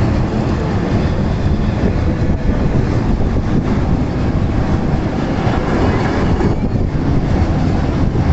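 Freight train passing close by: a steady, loud rumble and rattle of wheels and wagons on the track.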